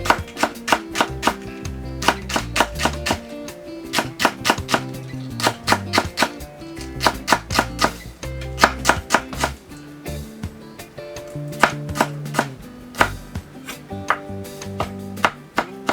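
A kitchen knife chopping vegetables on a cutting board in quick runs of rapid strokes with brief pauses between them, over background music.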